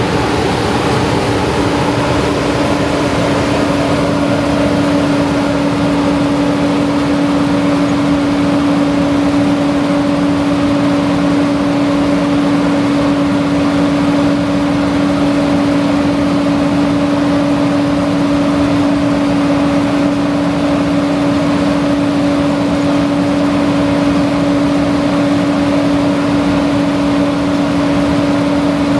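John Deere 9650 walker combine running steadily while harvesting wheat: a constant machine drone with a steady hum over a broad rushing noise.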